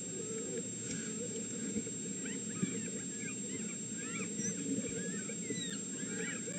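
Red wolf pups squeaking and whining: many short, high, rising-and-falling squeaks that come thicker from about two seconds in, over a steady low rustle.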